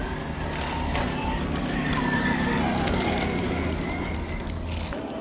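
Electric motor and gear drive of an RC scale crawler truck whining as it drives, the pitch shifting with the throttle, over a steady low hum, with small clicks of the tyres and chassis over rough ground. The sound changes abruptly just before the end.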